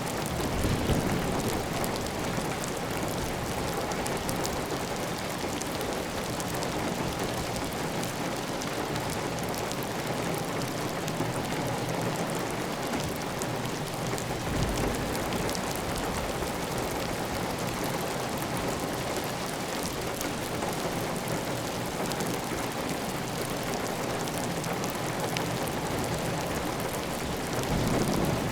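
Heavy, steady rain on a clay-tile roof, with water running off the roof edge. The hiss is even throughout, with a few brief louder low swells about a second in, midway and near the end.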